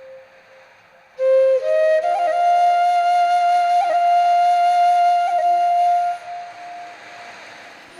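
Background music: a solo flute playing slow, long held notes with small ornaments. It comes in about a second in, rises to a higher note and holds it, then fades to a soft breathy tail near the end.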